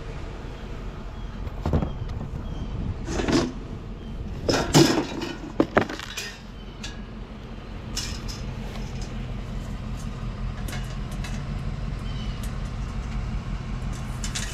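A vehicle engine idling steadily, with scattered knocks and clinks as items are picked through and handled.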